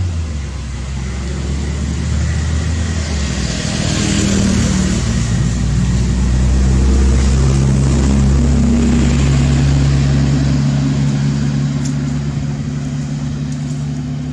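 A motor vehicle engine running close by, a steady low hum whose pitch shifts, swelling to its loudest in the middle and easing off toward the end.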